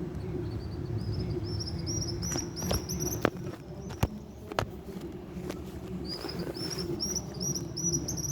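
A bird calling in two runs of short rising chirps, about four a second, with a few sharp clicks in between over a steady low rumble.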